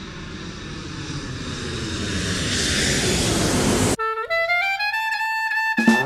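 Steady aircraft-like engine noise growing louder, cut off suddenly about four seconds in by jazz music: a lone woodwind line sliding upward in pitch, with a band coming in at the very end.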